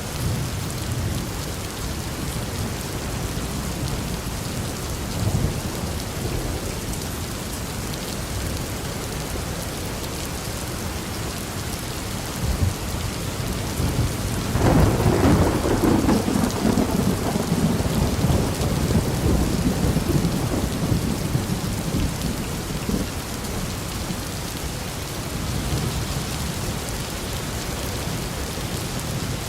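Steady heavy rain falling, with thunder: a loud rumbling clap about halfway through that fades slowly over several seconds, and fainter rumbles before it.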